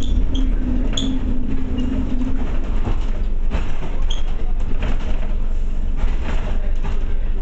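Scania OmniCity bus heard from inside while it drives: a deep diesel engine and road rumble, with rattles and knocks from the body and a few short squeaks. The engine's humming note drops away about two and a half seconds in.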